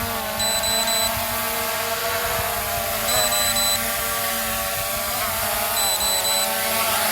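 SJRC F11S 4K PRO drone's propellers whining steadily, the pitch wavering as the motors fight strong wind. Short high electronic beeps repeat about every two and a half seconds, the warning that the battery is very low.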